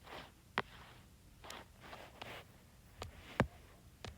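Faint handling noise: a few light, sharp clicks with soft rustles between them.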